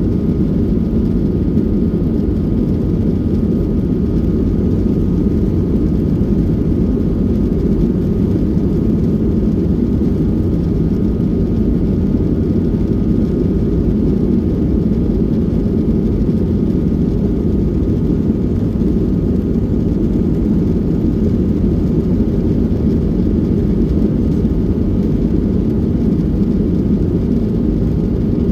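Steady cabin noise of a Boeing 737-800 in flight: an even, unchanging drone of engines and airflow, heaviest in the low end, with a faint steady high tone above it.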